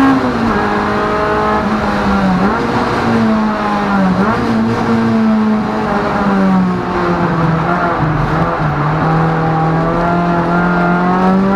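Honda Civic EG6's B18C four-cylinder engine heard from inside the stripped race-car cabin, running at high revs. Its pitch drops sharply at the start, dips briefly a few times, sags lower in the middle and climbs again near the end.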